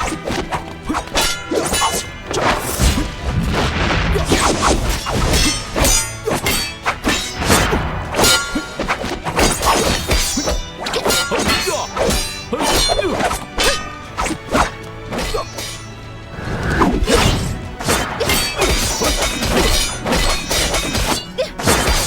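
Film fight-scene soundtrack: music plays under rapid, repeated clashes and whacks of swords striking in a duel.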